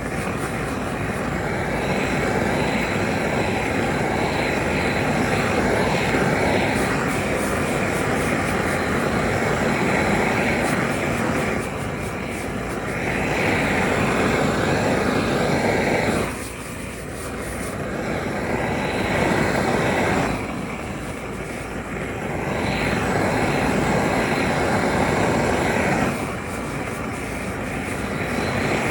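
Steady rushing roar of workshop machinery, which eases off briefly several times and then comes back at full strength.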